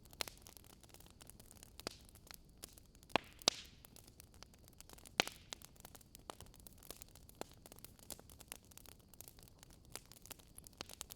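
Wood fire crackling: scattered pops and snaps over a steady soft hiss, with the sharpest pops a little after three seconds, at about three and a half, and about five seconds in.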